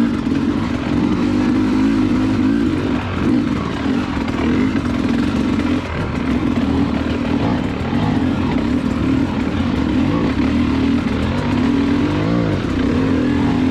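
Dirt bike engine running with the throttle worked on and off, its pitch rising and falling. It eases off briefly about six seconds in and revs up again near the end.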